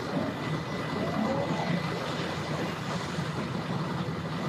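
Sterndrive (inboard/outboard) boat engine running steadily as the boat is power-loaded onto its trailer, a low even rumble.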